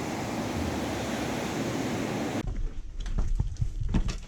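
Steady rushing of surf. About two and a half seconds in, it cuts abruptly to a low rumble with scattered irregular knocks.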